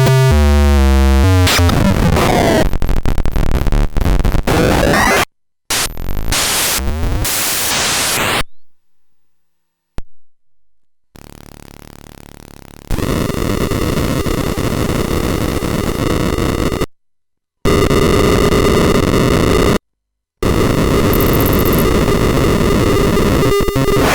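Paratek "Kosmicheskiy Shum" eurorack module, a Jupiter Storm-style noise source built on square-wave oscillators, putting out harsh, chaotic synthesizer noise. It comes in several loud bursts that start and stop abruptly with short silences between, opening with rapidly stepping tones and later turning to a dense buzzing noise with a held tone.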